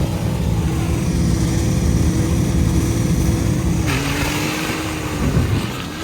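A car engine running hard under steady throttle, its pitch dropping about four seconds in as it eases off, with a short burst of hiss at that moment.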